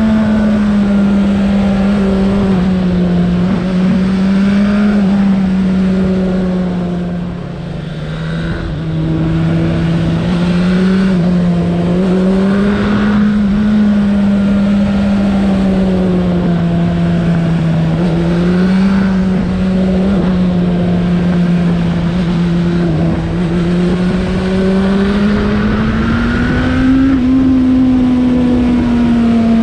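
Suzuki Bandit 1200's inline-four engine running under way, its pitch rising and falling gently with the throttle. It eases off briefly about seven seconds in and climbs again near the end.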